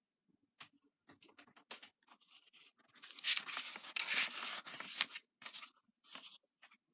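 Paper handling as a book's pages are turned: scattered small clicks and scrapes, then a couple of seconds of paper rustling about three seconds in, then a few more clicks.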